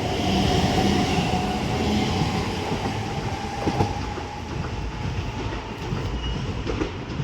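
Doubled-up Class 730 electric multiple units pulling away from the platform: a whine that rises gently in pitch over the first four seconds and then fades, over the rumble of wheels on rail, with a few clicks of wheels over rail joints.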